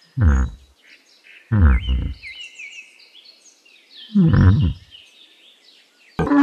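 Yak giving three low grunts, each falling in pitch and about half a second long, with small birds chirping faintly behind. Right at the end a different, higher call begins.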